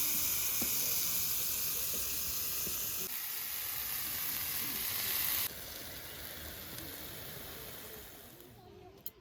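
Meat sizzling on a small Muraco iron griddle plate, a steady frying hiss that drops abruptly about five and a half seconds in and fades near the end.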